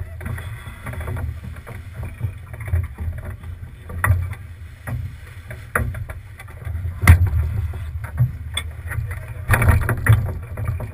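Sailing boat under way heard from an on-board GoPro: a steady low rumble of wind and water on the camera housing, broken by irregular knocks and splashes, the loudest about seven seconds in.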